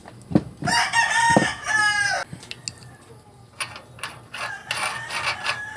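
Rooster crowing twice: one long crow about a second in that falls off at its end, and a second starting near the end. A few sharp knocks sound around the first crow.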